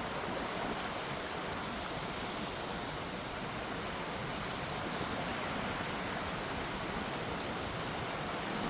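Gentle sea waves washing steadily, an even rushing hiss with no distinct breaking crashes.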